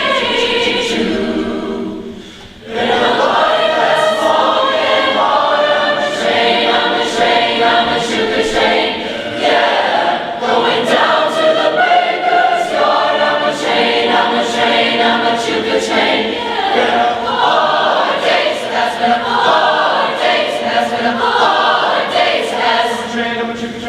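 Large school choir singing, with a short drop in level about two seconds in before the voices come back in full.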